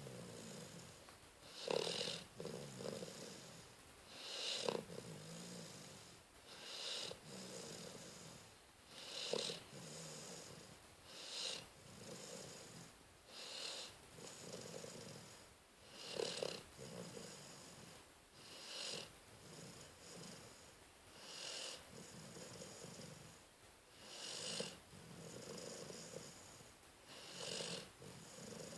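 Rottweiler snoring in its sleep, a rhythmic snore on each breath about every two and a half seconds.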